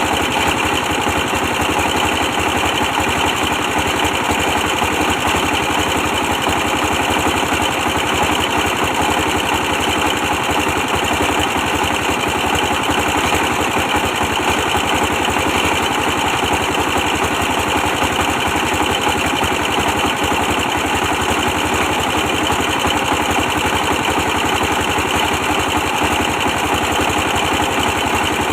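Old 24 hp stationary diesel engine running steadily at an even speed, with a fast, regular firing beat.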